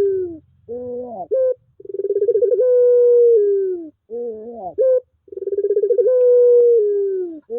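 Puter pelung dove cooing in a repeating cycle: a long rolling coo of about two seconds that drops in pitch at its end, then a short warbling phrase that slides up and down, about every three and a half seconds.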